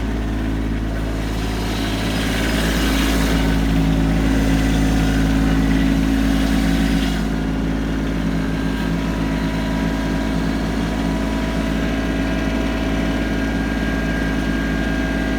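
Kubota B2650 tractor's diesel engine running steadily, a little louder from about two seconds in until about seven seconds in.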